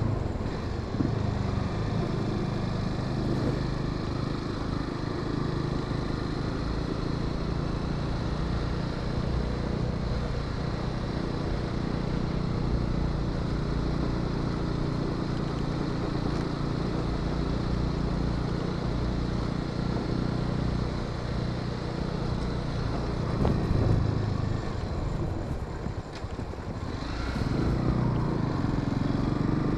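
Honda Sahara 300 single-cylinder motorcycle engine running steadily while riding, with wind and road noise. About 26 seconds in the engine eases off briefly, then pulls again with its pitch rising.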